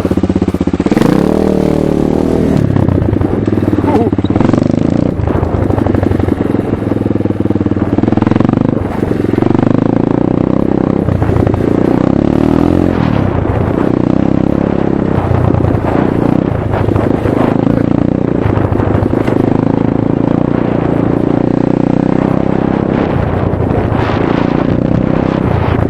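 Chinese motocross motorcycle engine running loud, its revs repeatedly rising and falling as it is throttled up and eased off.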